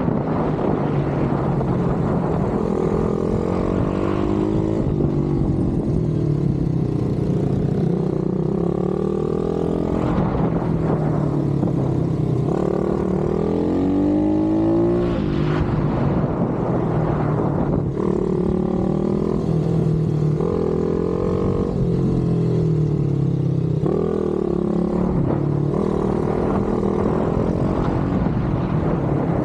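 Pit bike engine revving hard, its pitch climbing and dropping over and over every few seconds as the bike accelerates, shifts and backs off.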